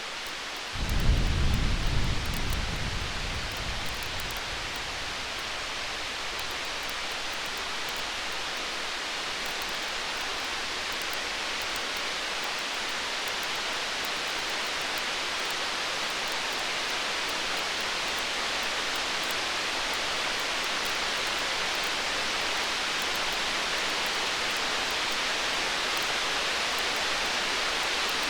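A deep rumble of distant thunder starts about a second in and fades away over a few seconds. It sits over a steady rain-like hiss that slowly grows a little louder, with faint small crackles.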